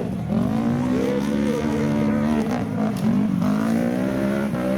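A truck engine revving up and down again and again, its pitch rising and falling several times in quick succession.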